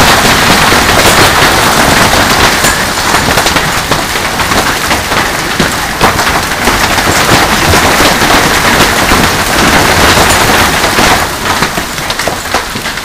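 Heavy hail pelting down: a loud, dense clatter of countless hailstone impacts that eases off slightly near the end.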